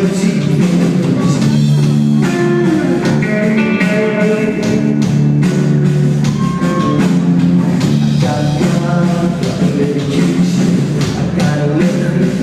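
Rock band playing live: electric guitars and drum kit, with singing over them.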